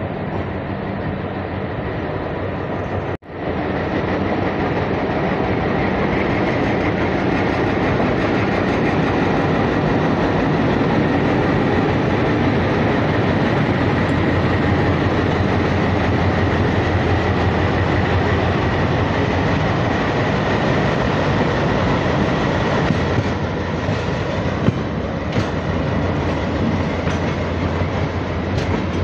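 Running noise of a moving passenger train heard from a coach doorway: a steady rumble and rattle of the wheels on the track. The sound cuts out for an instant about three seconds in, and there are a few sharp clicks near the end.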